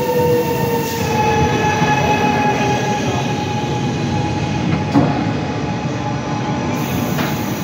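Regional passenger train pulling in and slowing along the platform: steady rumble of wheels on the rails, with whining tones that fall slowly in pitch as it brakes. A single sharp clack comes about five seconds in.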